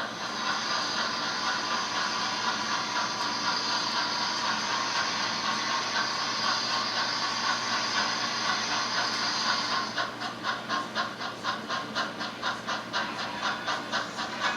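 Steam locomotive sound from an HO-scale model railroad: a steady hiss of steam for about ten seconds, then the beat of exhaust chuffs starts up, a few a second.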